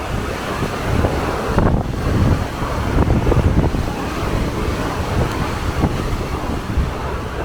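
Wind buffeting the microphone aboard a moving ferry: a loud, uneven rumble that swells and eases, over a steady rush of sea water.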